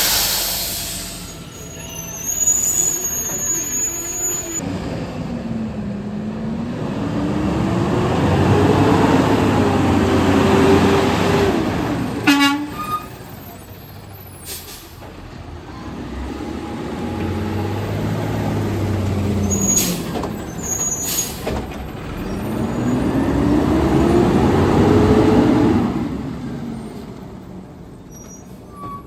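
Garbage truck engine revving up and dropping back twice as it drives the hydraulics for a pickup, with a sharp metal clatter about twelve seconds in and a few short air hisses.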